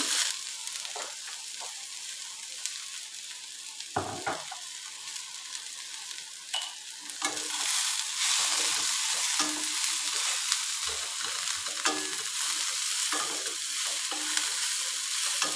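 Chopped okra frying in oil in a steel kadai, sizzling steadily while a spatula stirs it and scrapes and knocks against the pan now and then. The sizzle grows louder about halfway through.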